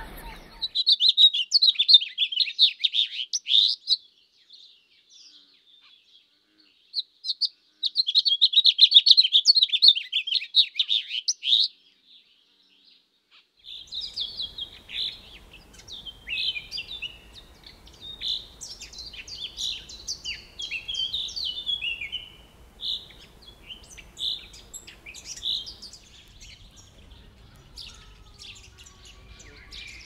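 Birds chirping: two bouts of rapid, high-pitched chirping in the first twelve seconds with silent gaps between them, then from about fourteen seconds in a varied run of shorter calls and twitters over a faint background hiss, fading somewhat near the end.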